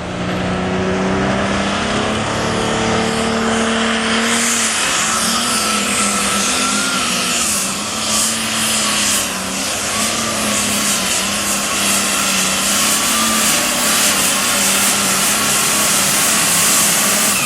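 Super stock pulling tractor's engine at full throttle under load. A steady engine note for the first few seconds, then from about four seconds in a loud rushing noise with a high, wavering whistle over it that holds to the end.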